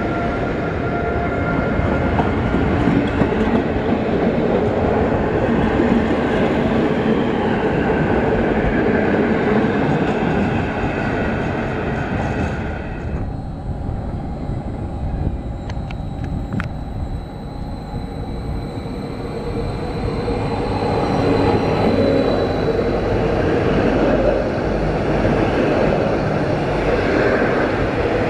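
A GYSEV passenger train of coaches behind an electric locomotive rolls past with a steady rumble and thin whining tones. About halfway the sound cuts off sharply. Then a GYSEV Stadler FLIRT electric multiple unit approaches, growing louder, and runs past close by.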